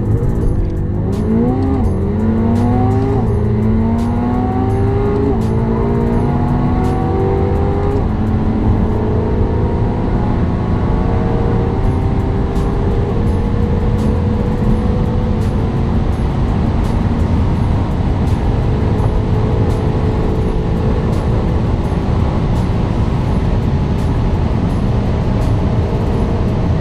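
Twin-turbocharged V8 car accelerating hard through the gears: the engine note climbs and drops back at each upshift, with the shifts coming further apart, and after about eight seconds it climbs slowly in the top gears. Music with a steady beat plays underneath.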